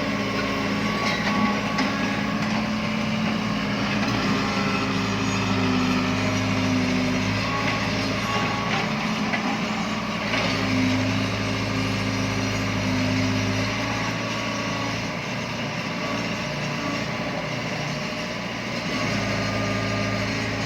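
Small electric motors and plastic gearboxes of remote-control toy trucks running with a steady whirring hum. The hum eases off and picks up again a few times, with small clicks over it.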